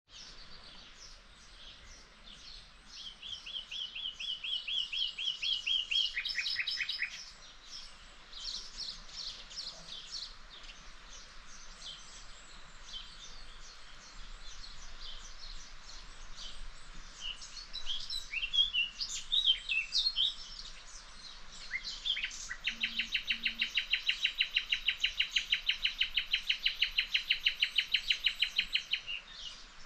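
Nightingale singing: a varied song of quick chirps and whistles broken by fast trills of repeated notes, the longest and loudest running about six seconds near the end.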